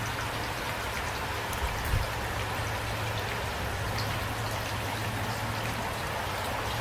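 Steady rain falling, with individual drops ticking here and there over the even hiss. Two brief low thumps sound close together about two seconds in.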